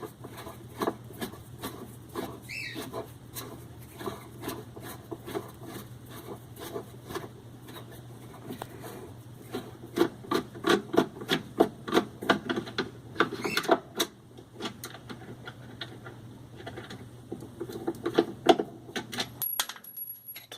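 A hand tool turning out a mounting screw on a washing machine's shift sensor: runs of rapid clicking and scraping, densest about halfway through. A steady low hum underneath stops near the end.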